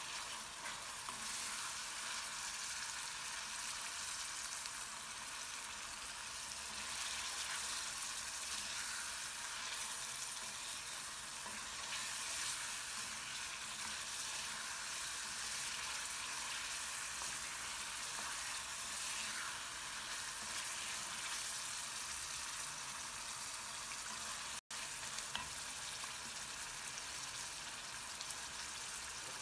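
Fried liver pieces with chopped onions, peppers and tomato sizzling in hot oil in a pan, a steady crackling hiss, with a wooden spoon stirring through the pan at times.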